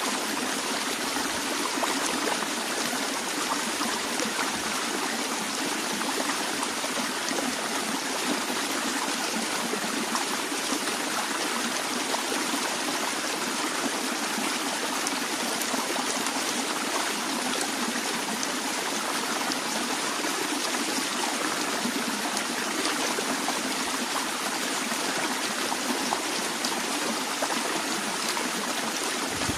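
Stream water flowing and trickling with a steady, unbroken rush.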